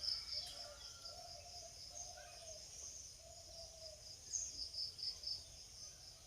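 Faint outdoor background: a steady high-pitched insect-like drone that swells and fades, with soft scattered bird chirps.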